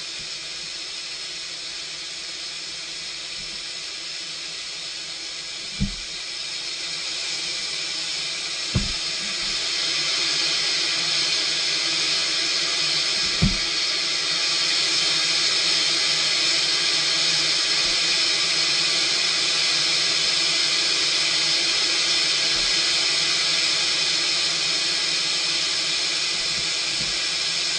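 Mark VII Aqua Jet GT 700 automatic car wash spraying high-pressure water jets, a steady hiss that swells louder about a third of the way in. Three short thumps come partway through.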